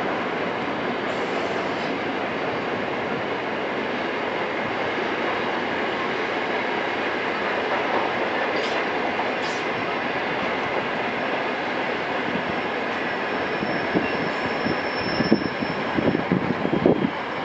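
Freight train wagons rolling past on the rails with a steady rumble. Near the end, sharp irregular wheel knocks over the rail joints set in, and a faint thin high wheel squeal joins them.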